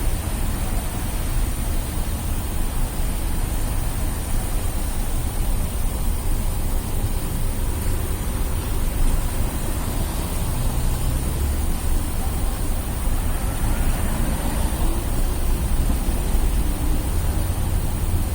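Steady city traffic noise on a wet street, with a constant low rumble and no distinct single events.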